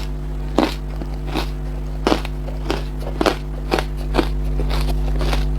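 Frozen ice being bitten and crunched between the teeth: sharp, irregular crunches about two a second, over a steady low hum.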